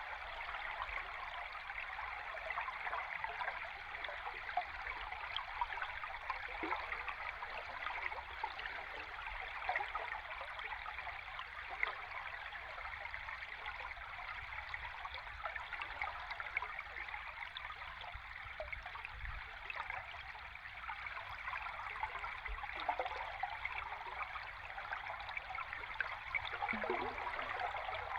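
A river stream heard underwater: steady, dense rushing and fizzing of moving water with fine crackle throughout. An occasional low gurgle falls in pitch, one near the end.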